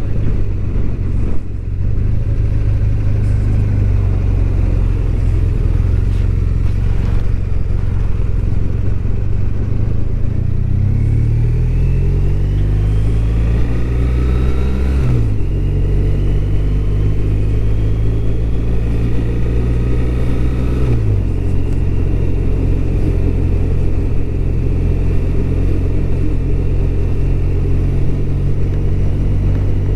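BMW R1200RT's flat-twin engine under way, under steady wind and road noise. Its pitch climbs about a third of the way in, drops suddenly about halfway as it shifts up, rises a little and drops again at a second upshift, then holds steady.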